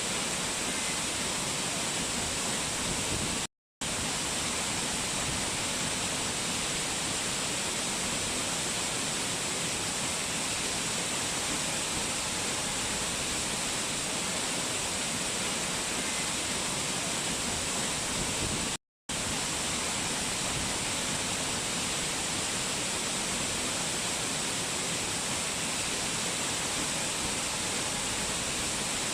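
Steady, even rush of fast water from a mountain waterfall. The sound cuts out completely twice for a split second, once near the start and once about two-thirds of the way through.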